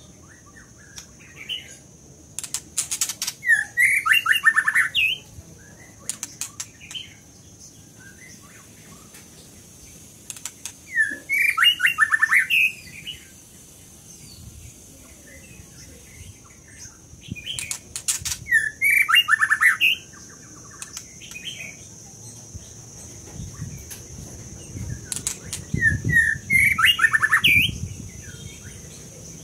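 A caged white-rumped shama singing loud, rich phrases of about two seconds each, four times, with quieter calls and sharp clicks in between and a steady high tone in the background.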